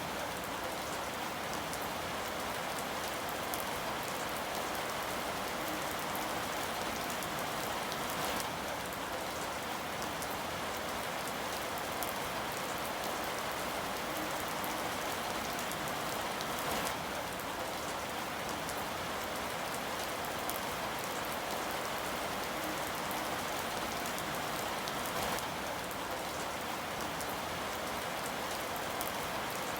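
Steady rain falling, an even hiss with scattered individual drop ticks on a surface.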